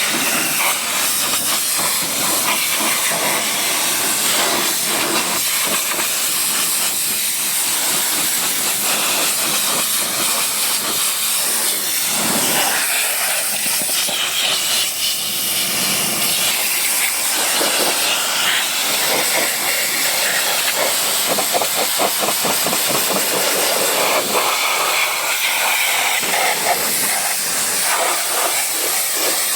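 High-pressure washer jet spraying water onto a vehicle, a steady loud hiss that varies slightly as the spray moves over the surface.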